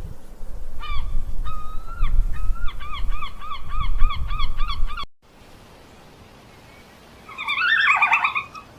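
Bird calls: a run of short repeated calls that quickens to about four a second over a loud low rumble, then after an abrupt cut a single longer, harsher call near the end.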